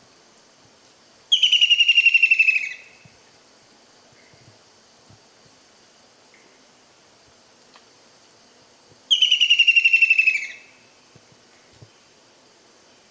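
A bird calling twice: each call a fast, loud trill of repeated notes, falling slightly in pitch and lasting about a second and a half, the second coming about eight seconds after the first.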